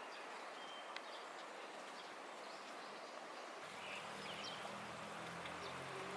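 Outdoor ambience: a steady hiss with a few short, high bird chirps. A low steady hum comes in a little past halfway.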